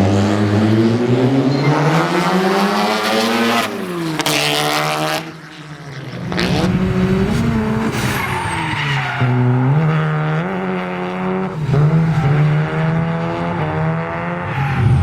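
A performance car's engine under hard acceleration: its pitch climbs steadily, then breaks at a gear change about four seconds in. After a short lull near the middle, the revs rise and fall several times.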